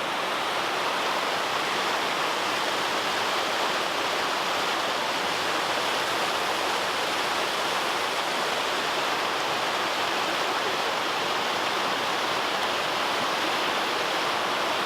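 Steady rushing of a creek below a waterfall, heard up close, a loud even hiss of running water.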